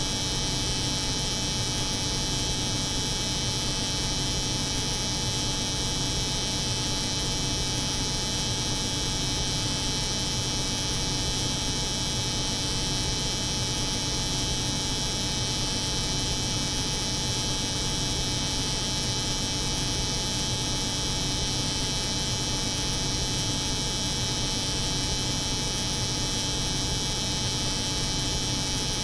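Steady hum of a cold room's refrigeration unit layered with the buzz of an electric hair clipper, unchanging in pitch and level.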